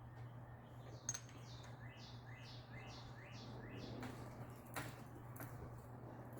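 A bird calls a quick run of about six high chirps, a little under half a second apart. A few light clicks and a steady low hum sound underneath.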